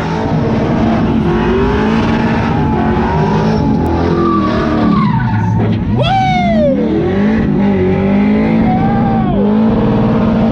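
Drift truck engine revving hard as it slides, with tyres skidding and squealing. The pitch swings up and down, and about six seconds in the revs spike sharply and fall away.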